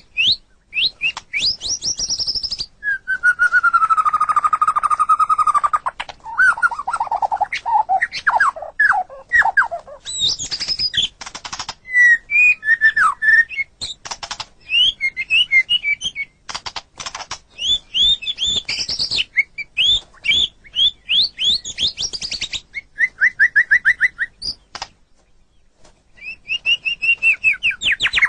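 White-rumped shama (murai batu) singing a long, varied song of fast trills, rising and falling whistled notes and a lower held, sliding phrase, with a brief pause near the end.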